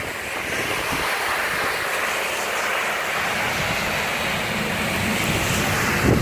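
Torrential downpour: heavy rain falling in a steady, loud hiss.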